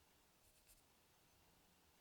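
Faint scratchy strokes of drawing on paper, two short ones about half a second in, otherwise near silence.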